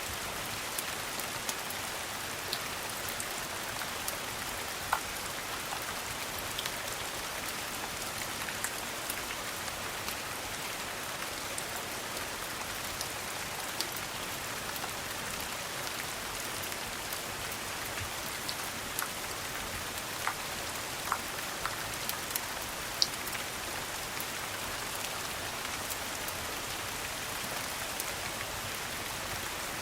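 Steady rain falling as an even hiss, with scattered sharp ticks and pops through it, a few of them louder near the middle.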